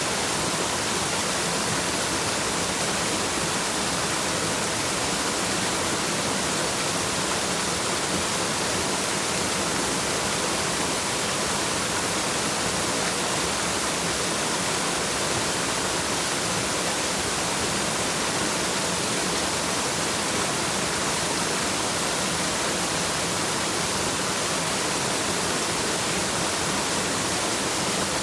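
Waterfall: a steady, unbroken rush of falling water, mostly hiss.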